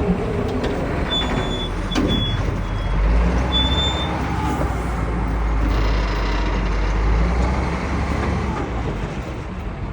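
Stone crusher plant running: a steady heavy mechanical rumble with a deep drone that swells for a few seconds in the middle. There are a few short high squeaks in the first four seconds and one sharp knock about two seconds in.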